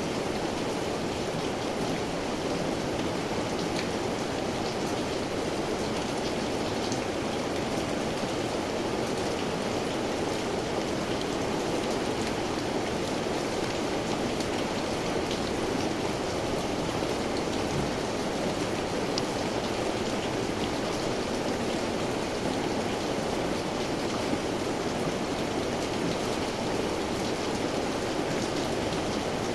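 Steady rainfall, a continuous even hiss of rain with scattered drops ticking on surfaces.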